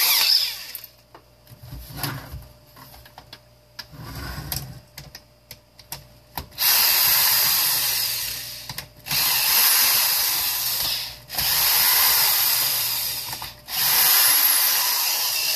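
A power drill with its bit fitted, working on a plastic space-heater housing: some clicks and handling noise at first, then the drill runs in four long bursts of a couple of seconds each with short pauses between.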